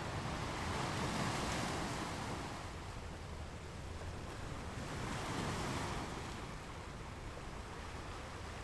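Ocean surf breaking on a sandy beach, the wash swelling twice about four seconds apart over a steady low rumble.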